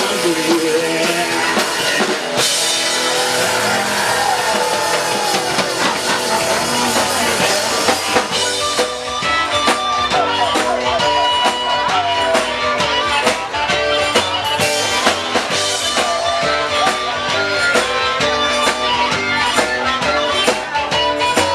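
Rock and roll band playing live, an instrumental break without vocals: drum kit and guitar, with a lead instrument bending notes in the first half and a driving, even beat.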